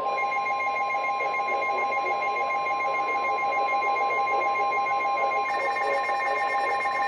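NOAA Weather Radio warning alarm: a long, steady, single-pitch alert tone, with a second pulsing alert tone layered over it and a third higher tone joining about five and a half seconds in, over radio hiss. It marks a new warning about to be broadcast.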